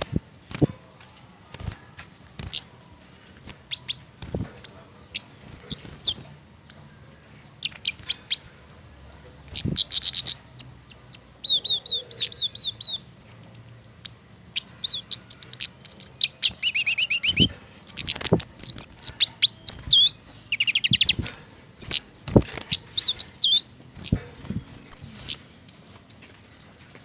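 Small flowerpecker known as kemade calling: a string of sharp, high ticks and short chirps broken by several rapid trills, getting busier over the second half.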